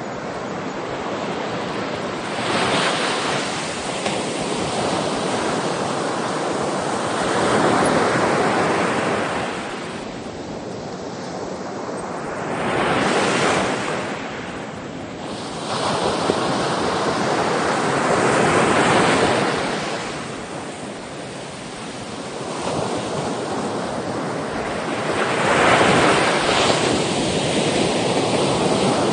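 Sea waves breaking on the shore: surf that swells into a loud rush and draws back, a new wave about every five or six seconds.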